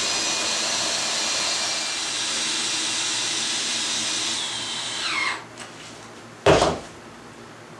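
Power drill running steadily as it drives screws into a plywood top, then winding down with a falling whine about five seconds in. A single loud thump comes about a second later.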